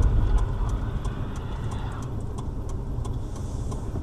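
Car engine and cabin rumble, a steady low drone heard from inside the car, with faint scattered clicks.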